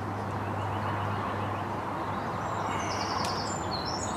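Steady wind noise on an outdoor range, with small birds chirping in quick high notes in the second half.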